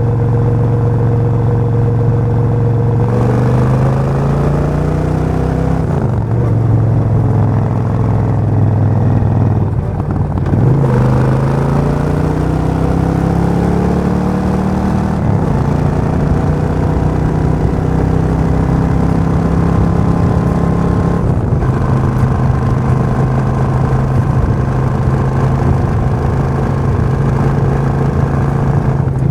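Suzuki VS1400 Intruder's V-twin engine. It runs steadily at first, then accelerates with the pitch climbing and dropping sharply at gear changes about six, ten and fifteen seconds in. After that it holds a nearly steady note.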